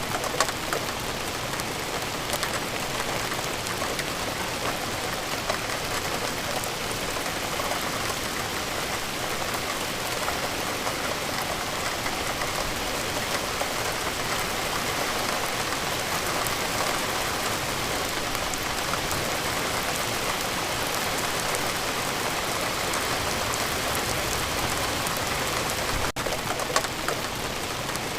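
Steady rain falling on a surface, an even hiss of many close drops with fine pattering ticks throughout, briefly interrupted near the end.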